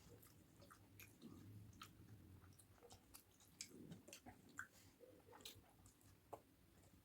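A person chewing a mouthful of food, faint, with many short irregular wet clicks and smacks of the mouth.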